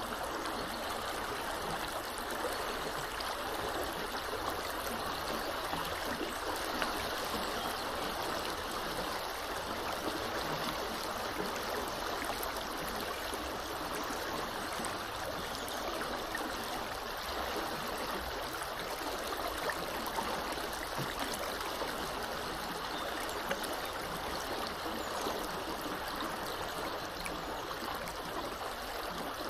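Small river flowing steadily, a constant rushing and gurgling of water over its bed.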